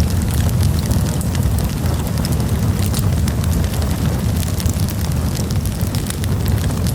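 Wood campfire burning: a steady low rumble of the flames with many small crackles and pops from the burning wood.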